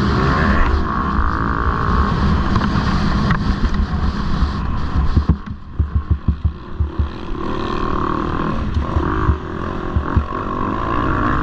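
Motocross bike engines running hard at racing revs. They ease off about five seconds in, with a quick stuttering run of low pulses, then pick up again.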